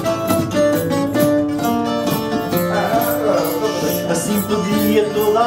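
Portuguese guitar and fado viola (classical guitar) playing the instrumental introduction of a fado, with a rhythmic accompaniment under the plucked melody.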